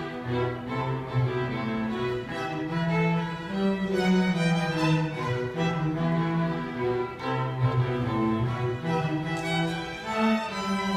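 String ensemble of violins and cellos playing a piece together, with sustained bowed notes in several layered parts.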